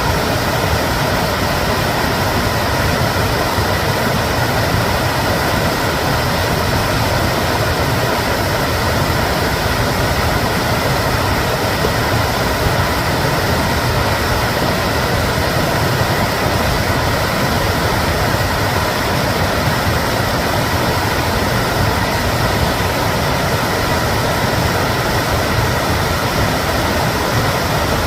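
Stream or river swollen by monsoon rain, flood water rushing in a steady, unbroken roar.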